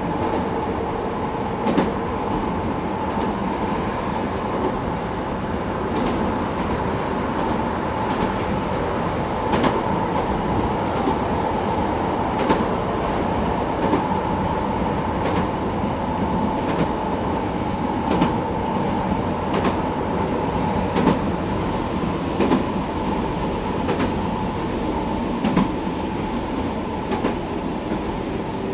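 Keihan 800-series electric train running at speed, heard from inside the driver's cab: a steady running rumble with a constant hum, and sharp wheel clicks over rail joints every second or two.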